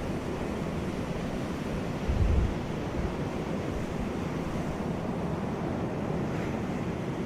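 Sea surf washing on a beach, a steady rushing noise, with a brief low thump about two seconds in.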